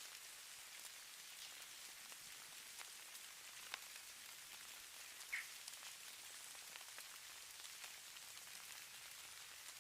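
Falling-snow ambience: a faint, steady high hiss dotted with soft ticks of precipitation landing on a surface, with two sharper clicks, one just under four seconds in and one about five and a half seconds in.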